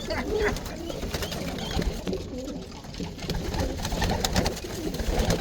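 A flock of roller pigeons cooing together inside a loft pen, with scattered sharp clicks among them.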